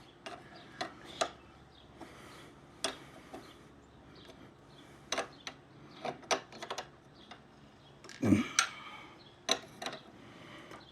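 Scattered light metallic clicks and taps of hand tools against the engine's fuel fittings, about a dozen separate clinks spread irregularly.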